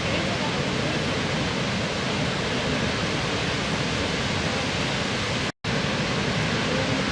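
Waterfall: a steady, dense rush of falling water, cut by a brief moment of total silence about five and a half seconds in.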